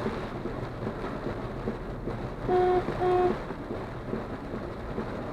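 Steady noise of heavy rain on a moving car, with tyre and road noise, heard from inside the cabin. A little past halfway a car horn sounds two short honks in quick succession.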